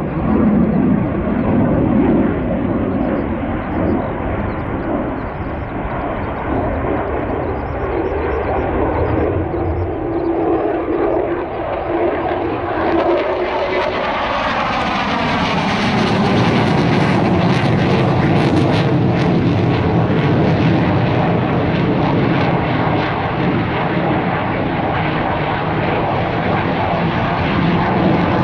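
Aircraft engine noise as a military aircraft flies past, growing louder and brighter about halfway through, with a shifting pitch as it passes.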